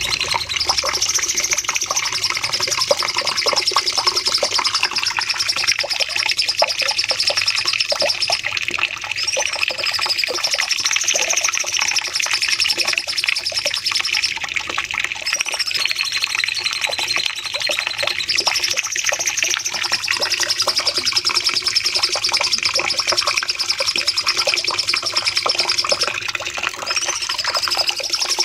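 Cucak cungkok songbird singing long, rapid, high-pitched 'nembak' volleys almost without pause, the song changing phrase briefly about 9, 15 and 27 seconds in.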